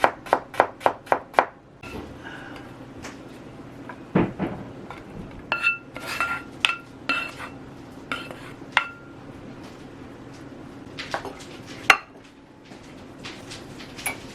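A knife chopping on a cutting board, about three strokes a second, stops after a second or two. Then dishes and metal utensils clink and ring against each other, over a steady low hum.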